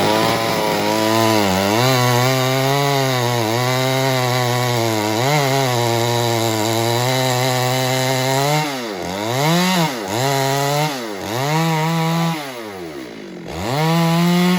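Stihl MS 382 two-stroke chainsaw running hard at high revs for about eight seconds, then the revs falling and climbing again several times.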